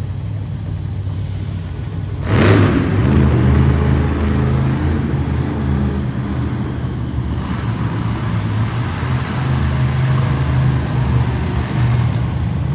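Monster truck engine running with a heavy low rumble; about two seconds in a sudden loud bang, after which the engine runs louder.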